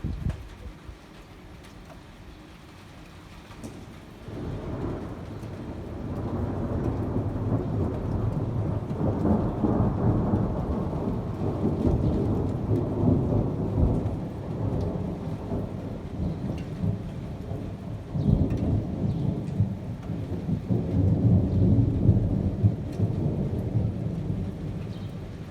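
Thunder from a thunderstorm: a long rolling rumble builds about four seconds in and swells. A second, sharper peal breaks in about two-thirds of the way through and fades near the end, over steady rain.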